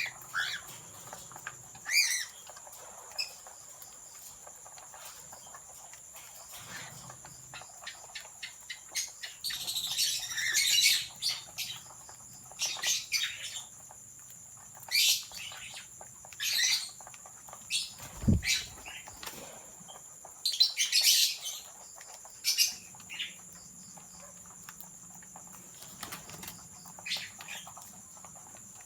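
Cockatiels calling, short high calls one after another at irregular intervals, with a denser burst of chatter about a third of the way in. A faint steady high tone runs underneath, and there is a single low thud past the middle.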